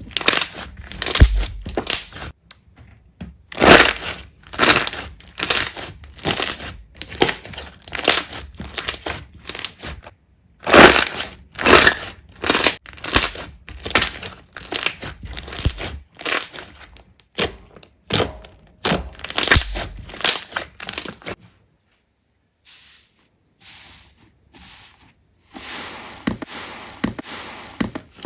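Slime being squeezed and pressed by hand, a crackling squish about twice a second. The squishes stop near the end, giving way to a short lull and then fainter, softer handling sounds.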